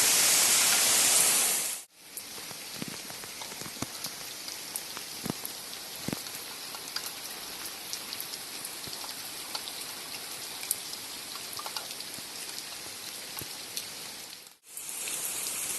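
Heavy summer rain as a dense, loud hiss, cutting off about two seconds in. It gives way to softer, lighter rain with many scattered drops ticking against surfaces.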